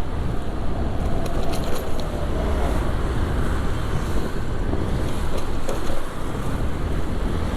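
Riding noise from a motorcycle on a wet city road: a steady low rumble of wind on the GoPro's microphone over the bike's engine and the surrounding traffic, with a few small clicks and ticks.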